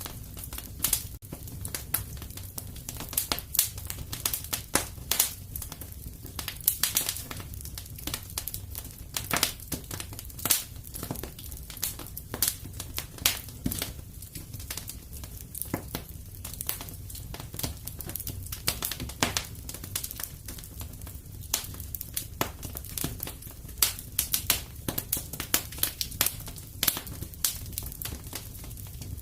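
Fire in a fireplace crackling: irregular sharp snaps and pops, several a second, over a steady low rumble.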